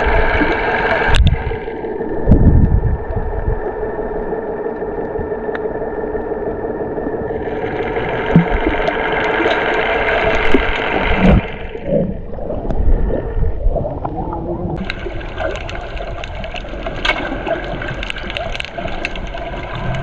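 Water gurgling and sloshing around a camera in the sea, muffled as if underwater or at the surface, with a few low thuds and a steady hum underneath.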